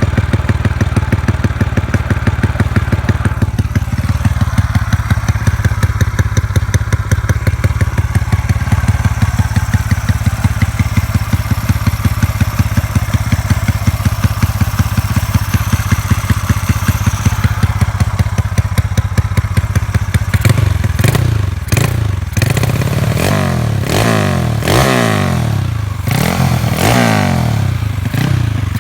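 Motorcycle with an aftermarket exhaust pipe idling with even, loud exhaust pulses. About two-thirds of the way in, the throttle is blipped again and again, the revs shooting up and dropping back with each blip.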